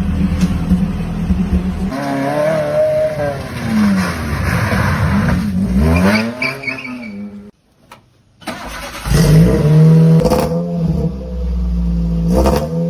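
Maruti Suzuki Esteem rally car's engine idling, then revved up and down several times. It cuts out abruptly for about a second near the middle, then idles again with more blips near the end.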